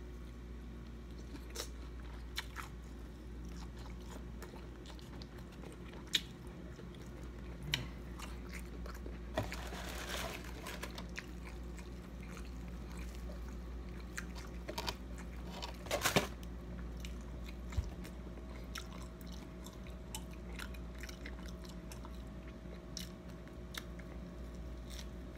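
Close-up eating of breaded fried fish: crunchy bites and chewing with scattered sharp crunches, a brief rustle about ten seconds in and a cluster of loud crunches about sixteen seconds in.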